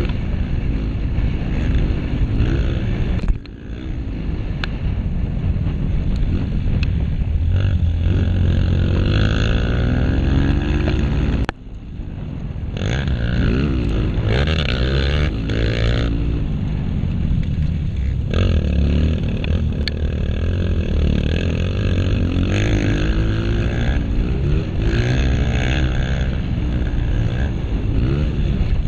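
Honda CRF230's single-cylinder four-stroke engine being ridden hard in a motocross race, revving up and down through the gears. The throttle is chopped abruptly twice, a few seconds in and again about a third of the way through, then picks straight back up.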